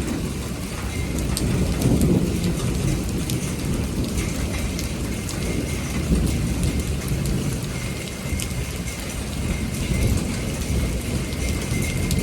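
Continuous rolling thunder, a deep rumble that swells about two seconds in and again about six seconds in, over steady rain with scattered pattering drops.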